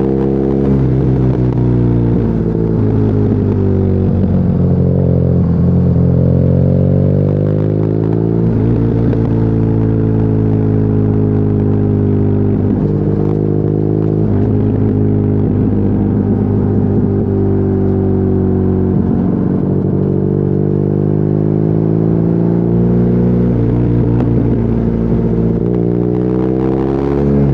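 BMW R nineT's 1170 cc boxer twin running through an Akrapovic exhaust while riding. The engine note climbs and drops several times as the rider accelerates, shifts gear and rolls off, with a climb about four to seven seconds in and another near the end.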